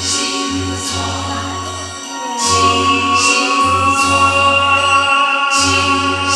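A solo voice singing over a backing track that has a steady bass beat and regular cymbal strokes. About two and a half seconds in, the singer holds one long note.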